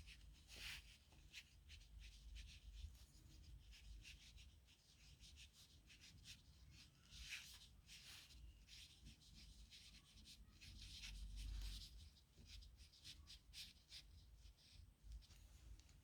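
Faint scratching of a nib pen on paper: a quick, irregular run of short strokes as the pen writes.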